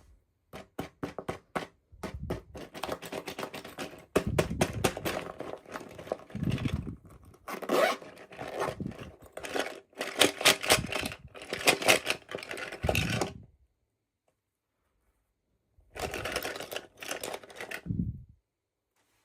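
Packaging being opened by hand: a dense run of small scrapes, clicks and tearing noises for about thirteen seconds, a pause of about two seconds, then another short run.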